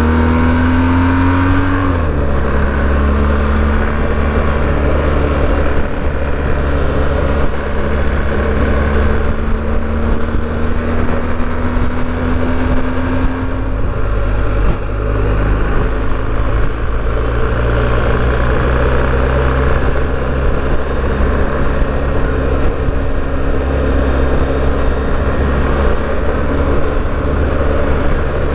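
BMW R1250GS boxer-twin engine under way, revving up in gear with a gear change about two seconds in, then a long slow rise in engine pitch. Steady wind and road noise runs underneath.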